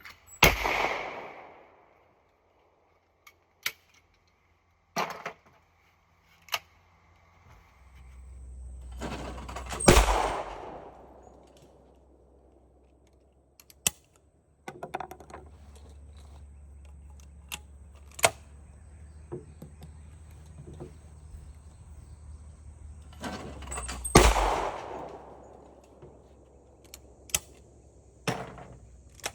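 Browning White Lightning 20-gauge over/under shotgun fired three times, about ten and fourteen seconds apart. Each loud shot trails off in a long echo. Fainter sharp cracks come between the shots.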